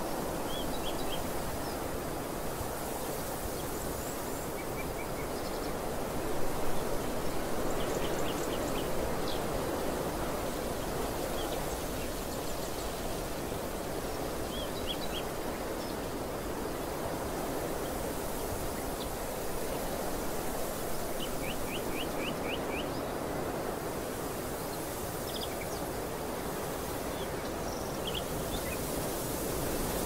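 Steady rushing background noise with small birds chirping every few seconds: short quick runs of high notes, a run of about five about two-thirds of the way through.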